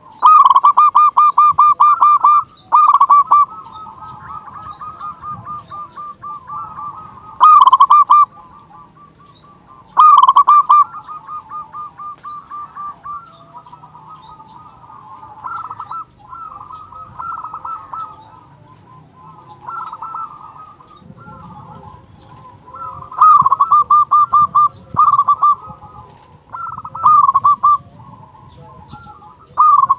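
Zebra doves (perkutut) calling: loud runs of rapid, staccato coos, each run lasting one to two seconds, with fainter calls from other doves in between.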